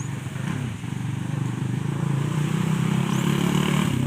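Honda XRM underbone motorcycle's single-cylinder four-stroke engine running, growing louder over the first couple of seconds and then holding steady.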